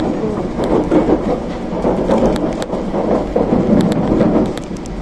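Hokuriku Shinkansen train running, heard from inside: a loud, steady rumble with scattered light clicks.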